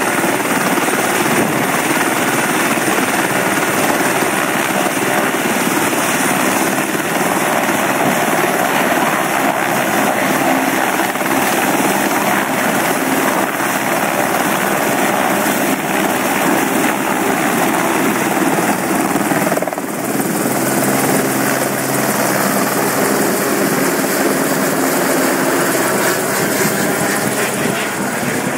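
Bell 206L LongRanger helicopter running steadily, its turbine and rotor making a loud, even noise, with a brief dip in level about two-thirds of the way through.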